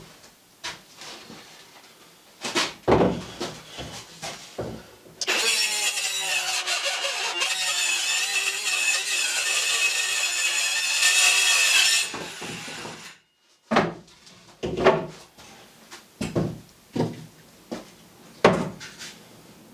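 Wooden knocks and clatter, then a power tool running steadily for about seven seconds before it cuts off, followed by more knocks of boards and tools being handled.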